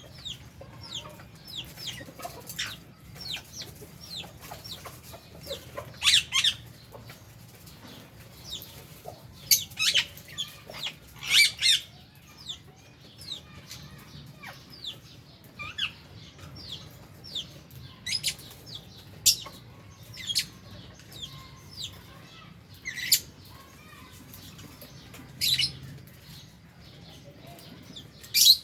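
Flock of lovebirds and budgerigars chirping in an aviary: many short, quick chirps overlapping throughout, with a louder shrill call every few seconds.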